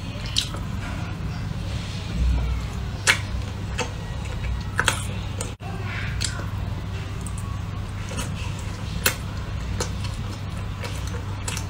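Close-up eating sounds of a soft glazed donut being bitten and chewed: irregular sharp wet mouth clicks and smacks every second or two over a steady low hum.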